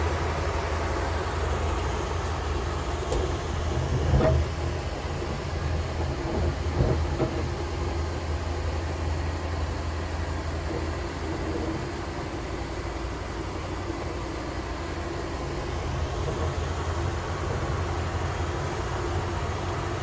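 Passenger train running on the rails with a steady low rumble. Two louder thumps come about four and seven seconds in.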